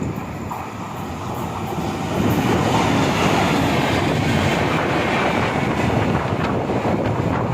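Short test train of one locomotive and two coaches passing at about 120 km/h: a rush of wheel-on-rail noise that swells about two seconds in and stays loud.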